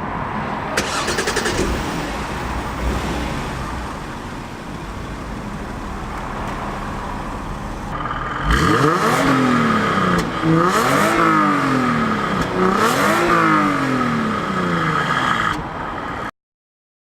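Jaguar XF 3.0 V6 petrol engine idling steadily, then revved three times, each rev rising and falling back to idle. The sound cuts off abruptly near the end.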